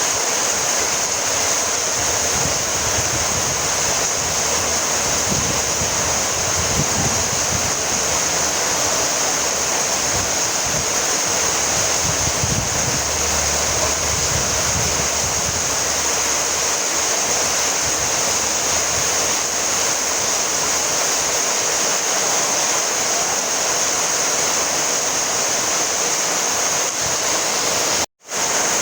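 Steady rainfall, an even wash of noise with some low rumbling in the first half. It cuts out to silence for an instant near the end.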